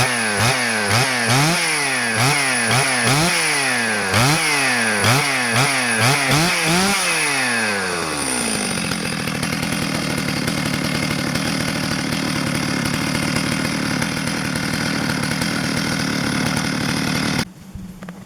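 Stihl MS 651 two-stroke chainsaw engine revved up and down in quick blips about ten times, then settling into a steady idle. The sound cuts off suddenly near the end.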